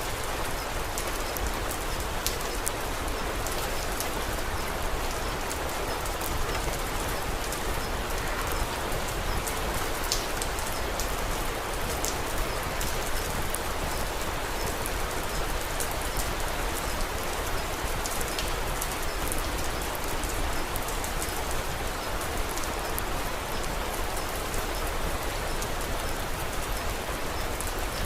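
Steady rain falling, with scattered small sharp crackles from a wood fire through it.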